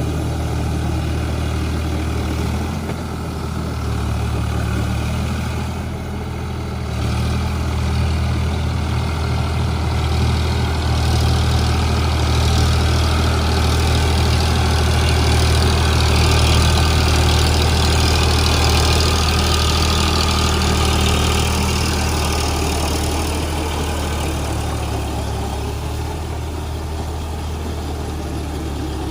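Eicher 551 Prima G3 tractor's diesel engine running steadily with a deep, even hum. It grows louder and gains a hissy edge around the middle, then eases off again toward the end.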